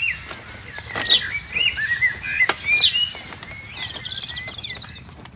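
Small songbirds chirping and whistling, with repeated quick downward-sweeping calls and a rapid trill about four seconds in. Two sharp clicks fall among the calls.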